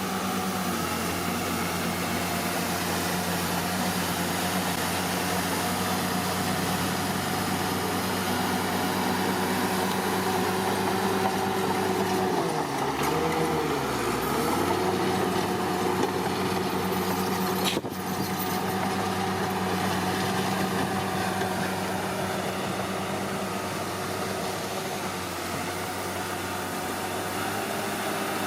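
Komatsu D41P bulldozer's diesel engine running steadily. About halfway through its revs dip briefly and climb back, and a single sharp click comes a few seconds later.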